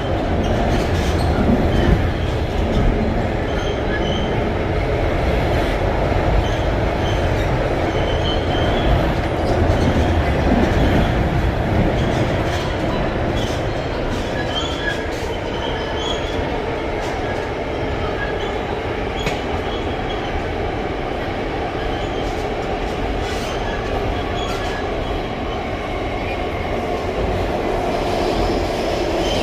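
Alstom Metropolis C751A metro train running, heard from inside the car: a steady rumble of wheels on rail, with brief faint wheel squeals and scattered clicks. It eases slightly about halfway through.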